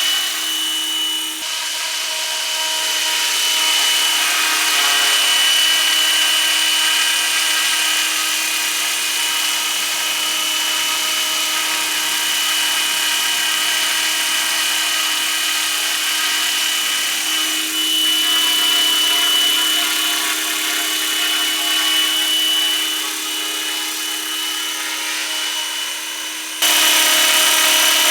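RC scale model MD 500 helicopter flying, its motor and rotors giving a steady whine with several pitched tones. The sound changes abruptly about a second in and again shortly before the end.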